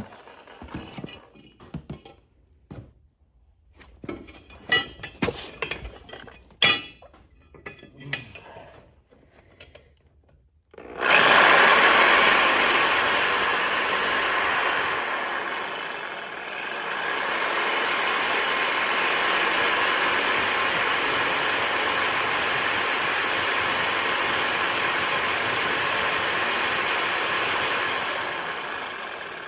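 Scattered knocks and clinks of handling for about ten seconds, then a jigsaw starts suddenly and runs steadily, cutting through the exhaust pipe, with a brief dip about sixteen seconds in before it carries on.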